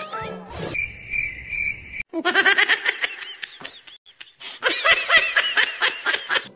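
Cricket-chirp sound effect for a second or so, then high-pitched laughter in quick repeated bursts, in two bouts with a short break around the middle.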